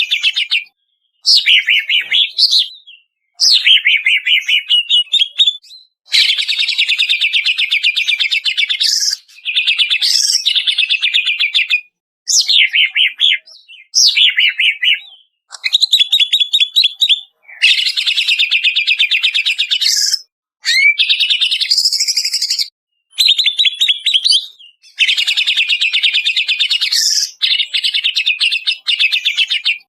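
Greater green leafbird (cucak ijo) singing a rapid string of loud phrases. Each phrase lasts one to three seconds and is made of fast repeated chattering notes mixed with rising and falling whistles, with short silent gaps between phrases.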